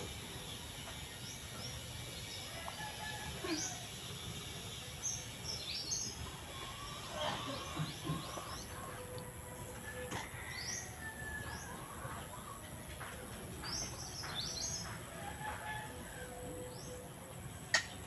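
Small birds chirping: short, rising chirps every second or so over a steady outdoor background with a constant faint high-pitched whine. A sharp click near the end.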